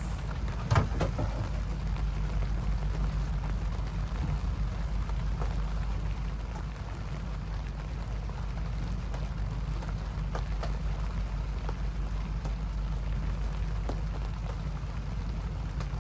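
Steady rain falling, with scattered sharper drop taps and a constant low rumble underneath.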